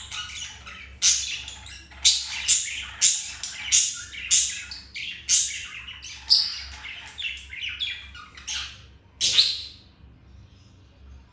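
Budgerigars calling: a quick run of sharp chirps and squawks, about two a second, that stops about nine and a half seconds in.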